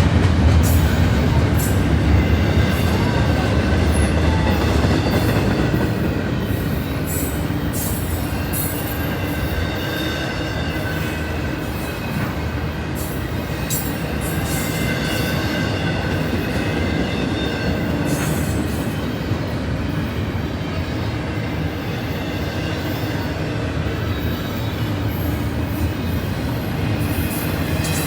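A train rolling past with a steady rumble of wheels on rail, with thin high-pitched wheel squeal and scattered clicks from the cars.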